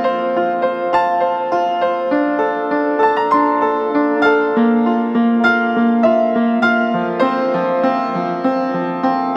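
Background piano music: many notes struck in a flowing pattern, several sounding together, at an even level.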